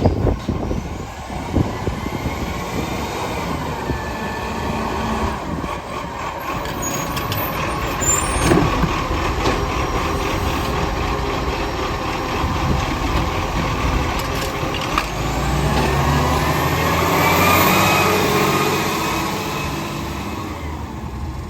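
Garbage truck running, its engine swelling louder with a rising whine for a few seconds near the end, then easing off.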